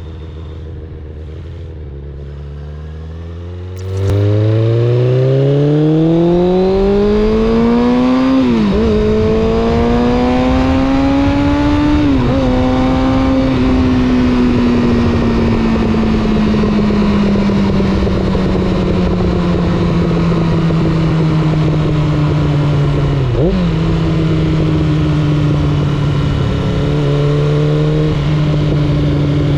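Suzuki GSX600F's inline-four engine runs steadily at low revs, then about four seconds in gets much louder as the bike pulls away. Its pitch climbs, with two quick gear changes. It then eases off, the pitch falling slowly, with one more gear change near the end.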